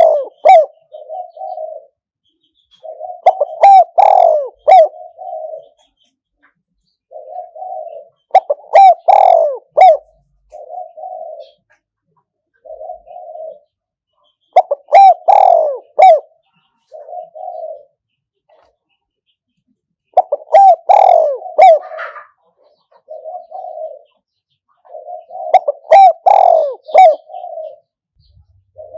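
A caged decoy spotted dove cooing. It gives a loud phrase of several coos every five or six seconds, with softer coos between the phrases.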